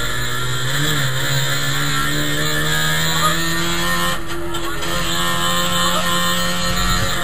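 Trabant race car's two-stroke two-cylinder engine running under load at fairly steady revs, heard from inside the cabin, with a brief rise in pitch about a second in.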